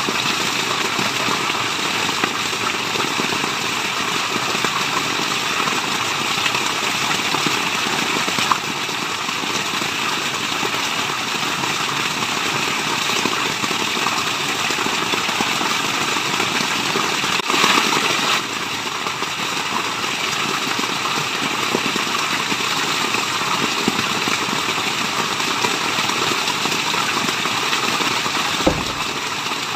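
Steady rushing water of a waterfall, an even wash of noise with a brief louder surge a little past halfway.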